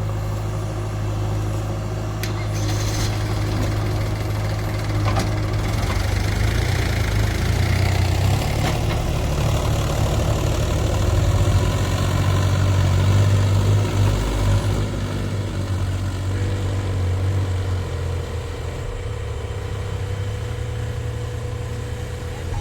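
Heavy diesel machinery engine running steadily, growing louder through the middle and then easing back.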